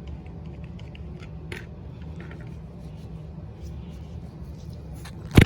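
A mop cloth rubbing on a model car: scattered faint scrapes and clicks over a steady low hum, then a sudden loud knock near the end.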